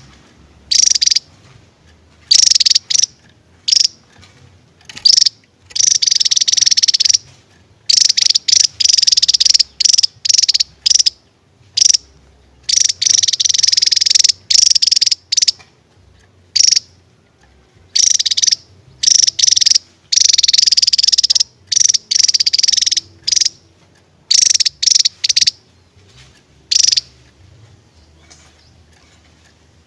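Javan tesia singing: bursts of high, rapid, buzzy rattling song, some short and some over a second long, with brief gaps between them. The song stops a few seconds before the end.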